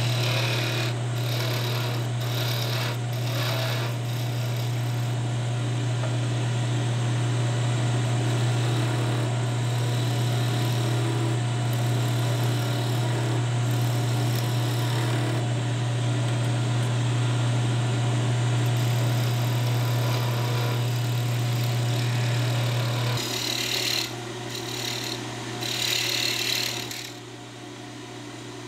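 Electric power tool running with a steady hum. Its motor drops away about 23 seconds in, and a few short scraping sounds follow.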